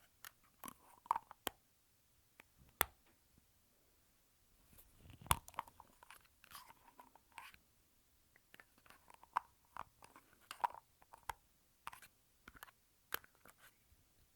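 Lipstick tubes and caps handled close to the microphone: irregular sharp clicks and short scraping rustles, with a heavier knock about five seconds in.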